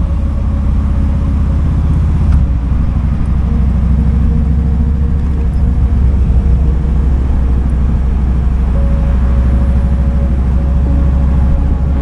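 Kawasaki Vulcan 2000's big V-twin engine running under way, a loud, steady, deep pulsing rumble.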